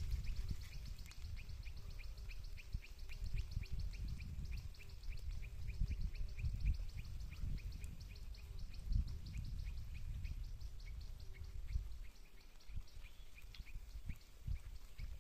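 A bird calling in a rapid, even series of short chirps, about six a second, thinning out near the end, over a low rumble that eases near the end.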